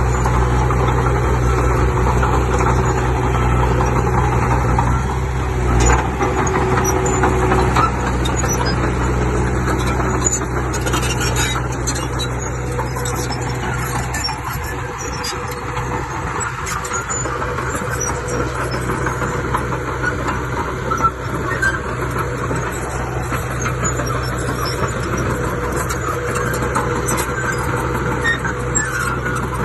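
Diesel engines of a crawler bulldozer and a dump truck running as they work the soil. A deep steady engine drone eases off about six seconds in, then runs on lower with scattered clanks.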